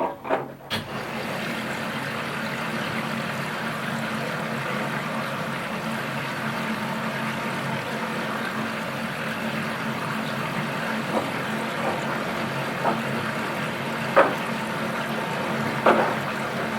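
Washing machine filling with water: after a few clicks, the inlet water starts under a second in and runs steadily with a low hum, with a few brief knocks or splashes in the second half.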